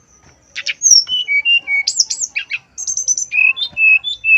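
Male brown-chested jungle flycatcher singing: about half a second in, a fast, varied run of high whistled notes begins, with up-and-down slurs and short rapid trills, and it carries on to the end.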